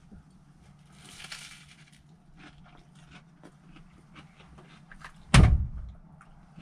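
Close-up chewing of a toasted sandwich, small crunchy clicks over a low steady hum, broken by one loud thump about five seconds in.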